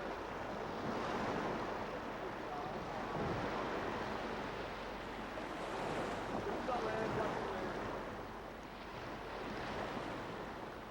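Sea surf and wind, a steady rushing that swells and ebbs gently.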